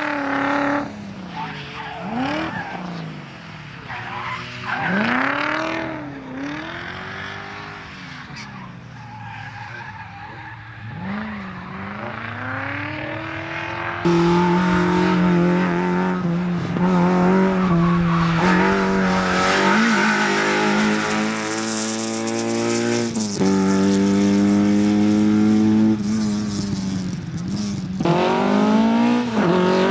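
Rally cars' engines revving hard up and down through the turns of a slalom course, with tyre squeal. About halfway through, the sound jumps to a louder, closer car held at high revs, its pitch stepping with gear changes and climbing again near the end.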